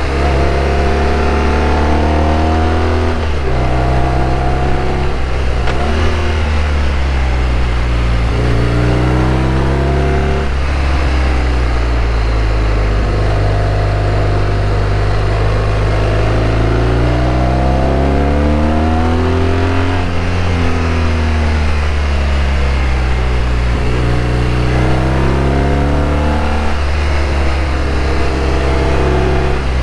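BMW R1200RT flat-twin engine heard from the saddle while riding, its pitch rising and falling as the revs change, with a few sudden breaks like gear changes. Wind rush runs underneath.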